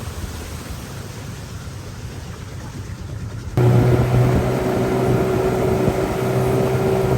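A duller rushing noise without a clear engine tone, then about halfway through the steady drone of a boat's small outboard motor cuts in suddenly and runs on.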